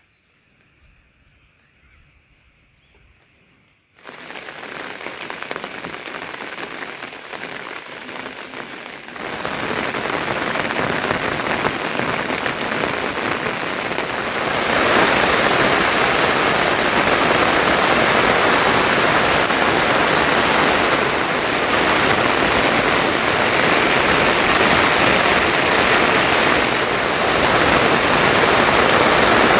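Heavy rain falling steadily. It cuts in suddenly about four seconds in and gets louder in two steps, about nine and fifteen seconds in. Before the rain starts, a quick run of high chirps, about two or three a second, sounds over a quiet background.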